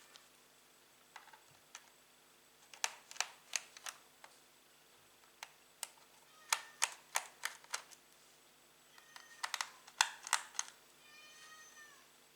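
Sharp clicks and taps in three quick clusters, then a cat meows once near the end.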